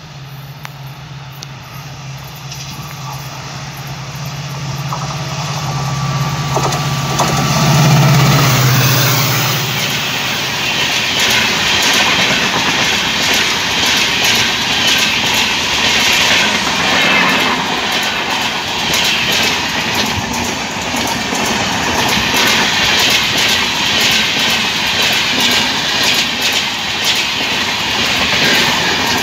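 Passenger train passing at speed. A locomotive's low steady hum builds as it approaches and peaks about eight seconds in, then the LHB coaches go by with a fast, continuous clickety-clack of wheels over rail joints.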